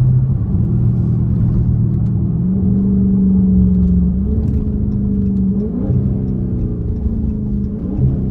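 Straight-piped 6.4-litre 392 HEMI V8 exhaust of a Dodge Charger Scat Pack running steadily on the road, its pitch stepping up and down several times.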